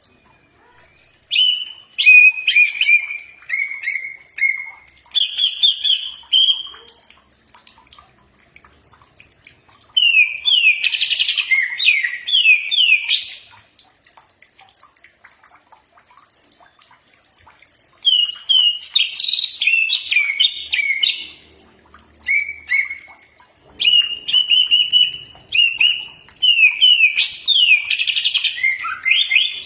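Cucak ijo (green leafbird) singing. Loud phrases of quick whistled notes and trills come in bursts of a few seconds, with pauses of up to about four seconds between them.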